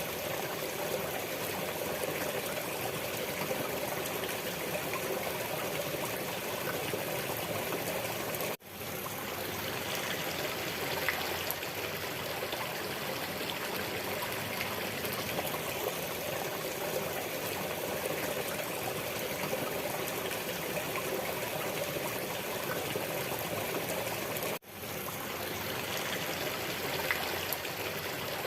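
Steady running water, like a flowing stream, with a constant rushing trickle. It cuts out for an instant twice, about 8 and 24 seconds in, then resumes.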